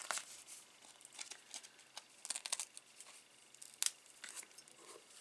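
Adhesive foam dimensionals being peeled from their backing sheet and pressed onto card stock: faint scratchy peeling and paper rustling with scattered small clicks, and a sharper click about four seconds in.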